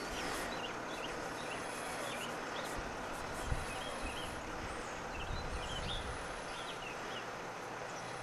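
Outdoor background hiss with birds chirping on and off, and one faint knock about three and a half seconds in.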